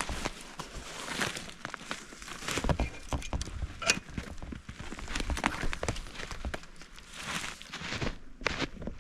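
Footsteps crunching through snow: an irregular run of crunches and crackles.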